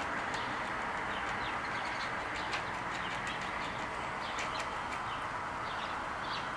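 Small birds chirping: many short, quick high chirps scattered throughout, over a steady background hiss.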